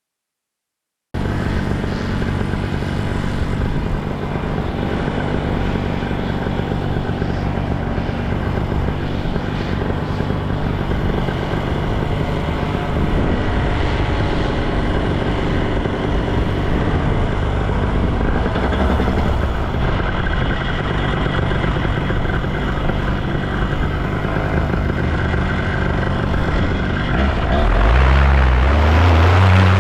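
Paramotor engine and propeller running steadily in flight. It starts about a second in, and gets louder and lower near the end.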